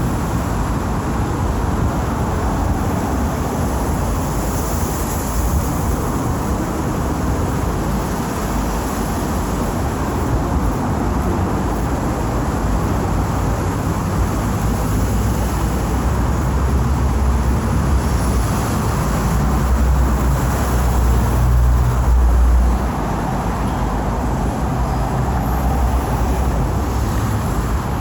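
Steady city traffic noise with vehicles running past. A deep rumble swells over the second half and cuts off suddenly about three quarters of the way through.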